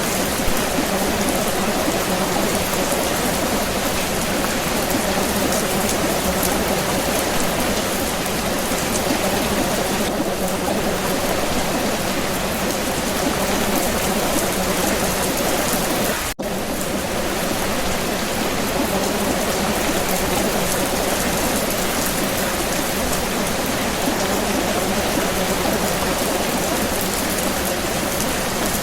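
Steady rain falling, an even hiss of many drops. It cuts out for an instant about halfway through, then resumes unchanged.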